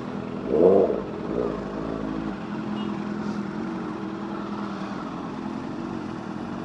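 Motorcycle engines running steadily, with one brief louder rev that rises and falls a little under a second in.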